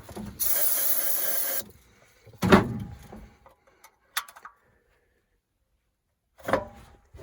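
Hand work on a truck's front wheel: a hissing scrape lasting about a second, then a loud sharp knock, a small click, and after a dead gap another short knock. This fits the manual locking hubs of an old Ford F-250 being turned and locked in.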